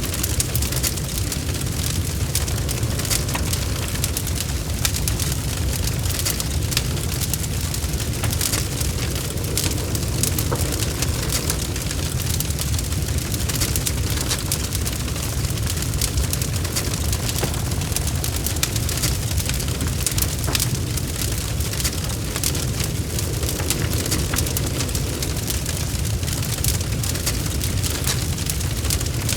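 Wood fire burning in a fireplace: a steady low rumble of flames with dense, continuous crackling and popping of the logs.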